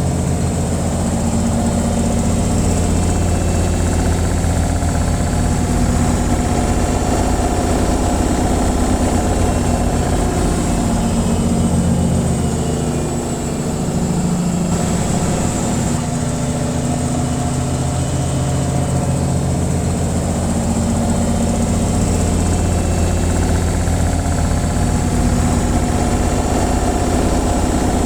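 Washing machine on its spin cycle, the drum spinning at speed with a steady, loud, low humming drone that dips briefly about halfway.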